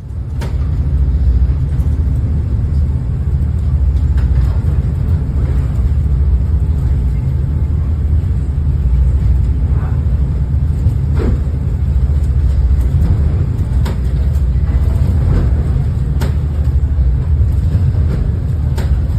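Passenger boat's engines droning steadily in a low rumble while it crosses rough seas, with a few sharp knocks and clatters scattered through.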